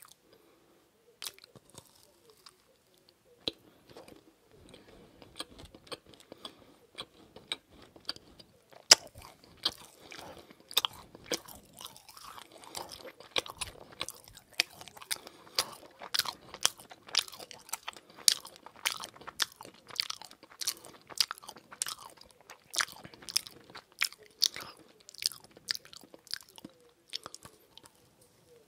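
Close-miked eating of a teal macaron: a few small mouth clicks at first, then a sharp crunch about nine seconds in, followed by steady crisp, wet chewing of the shell and filling.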